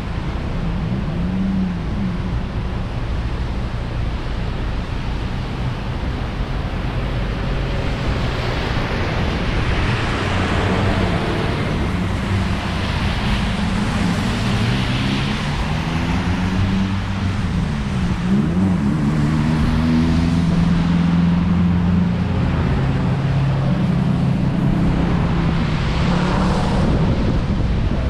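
Chevrolet Malibu driving on a rain-wet road. A steady rush of tyre spray and wind swells several times, and the engine note climbs and drops repeatedly as the car speeds up and slows.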